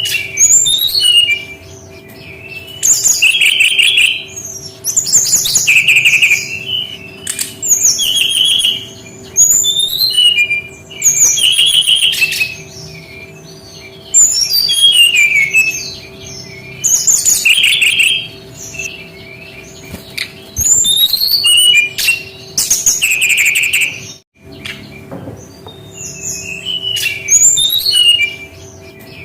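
SRDC (sikatan rimba dada coklat, a jungle flycatcher) singing: a run of short, loud, high-pitched phrases of quick chirps and trills, repeated every two seconds or so, with a faint steady hum underneath.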